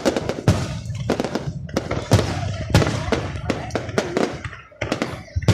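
Fireworks going off in quick succession: a dense string of sharp bangs and crackles, several a second.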